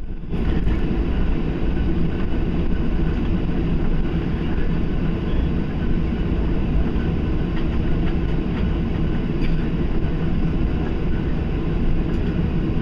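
Steady low rumble of a Boeing 737-700's engines and airframe heard inside the passenger cabin, with a lighter hiss above it and a few faint rattles.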